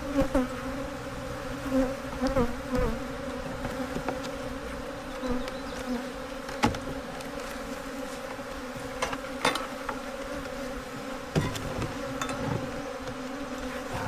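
Steady buzzing of a mass of honey bees at an opened hive, stirred up and defensive after the colony was disturbed. A few sharp clicks or knocks come through the buzzing.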